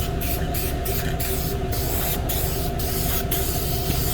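Aerosol spray-paint can hissing in quick passes with many brief breaks, laying paint onto a car body. A steady low hum runs underneath.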